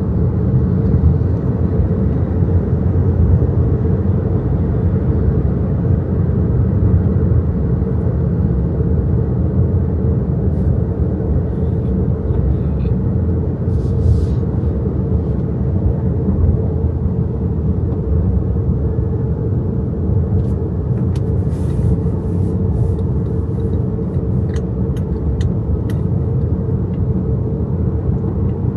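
Steady tyre and road rumble heard inside the cabin of an XPENG G6 electric SUV while driving. A few faint light clicks come through in the second half.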